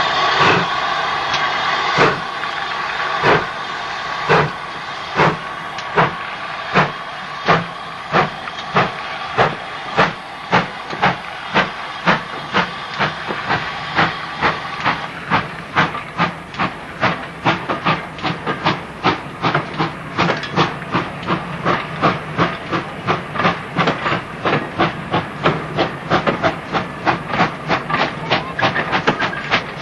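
GWR 2800-class 2-8-0 steam locomotive 2857 starting away: a hiss of steam, then exhaust beats that begin more than a second apart and quicken steadily to about three a second as the engine picks up speed.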